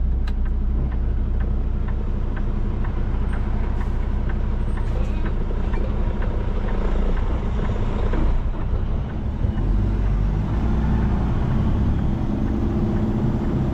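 Peterbilt 389 semi truck's diesel engine running steadily, heard from inside the cab, with a brief dip in loudness about nine seconds in.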